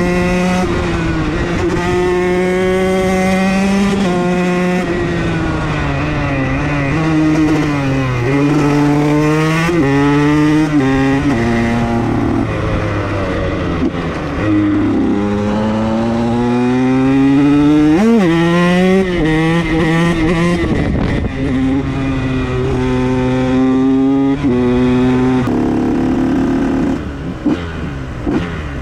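Motorcycle engine being ridden, revs repeatedly climbing and dropping as it works through the gears, with a quick sharp rise and fall about eighteen seconds in.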